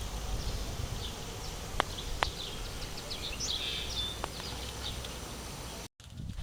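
Outdoor garden ambience: small birds chirping in short high notes, over a low steady rumble. Two sharp clicks come about two seconds in, and the sound drops out briefly at a cut near the end.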